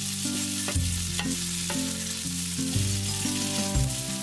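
Spaghetti and shrimp frying in butter and olive oil in a pan: a steady hiss of sizzling, with a music track of steady notes underneath.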